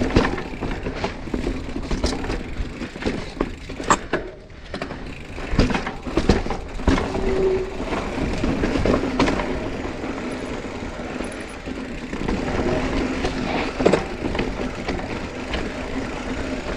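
Mountain bike ridden over a rough dirt trail: steady tyre noise on dirt with frequent knocks and rattles from the bike over bumps.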